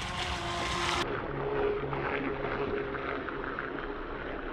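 Small RC hydroplane's electric motor running out on the water, faint and steady under the outdoor noise. The sound turns duller about a second in.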